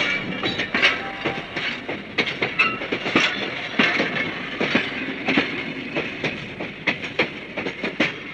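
Train running on rails: wheels clacking irregularly over the rail joints over a steady running noise.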